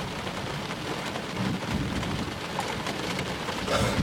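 Heavy rain drumming steadily on a car's roof and windshield, heard from inside the cabin, with a low rumble of thunder.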